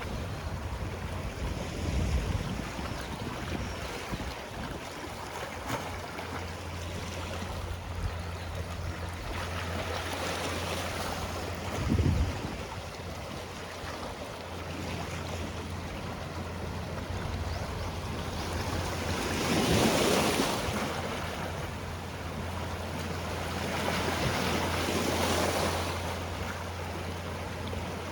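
Sea waves washing onto a rocky shore, with several swells of surf rising and falling, the biggest about two-thirds of the way through. Short low thumps, at about two and twelve seconds in, stand out over the steady wash.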